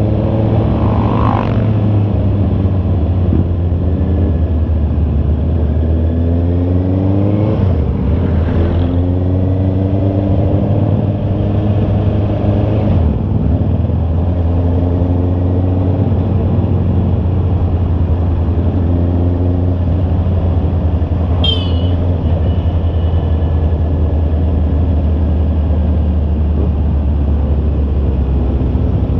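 Honda CB650R inline-four engine under way, its pitch rising several times as it accelerates through the gears, over a steady low rumble. A brief high chirp sounds about three-quarters of the way through.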